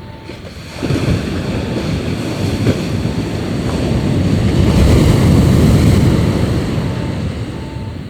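Sea waves breaking and washing up on the shore, coming in suddenly about a second in, swelling to a peak and then drawing back.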